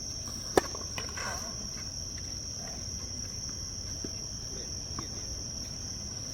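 A steady high-pitched buzz of insects, with a single sharp tennis ball strike about half a second in and a few fainter knocks of the ball later on.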